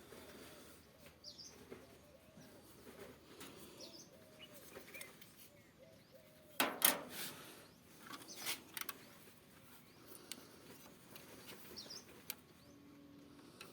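Birds chirping now and then in the background, with two short, loud rustling knocks about seven and eight and a half seconds in.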